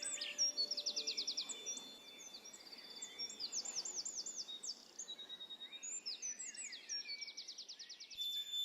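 Songbirds singing: rapid trills of high, quickly falling notes about a second in and again near the end, with looping, arching phrases in between.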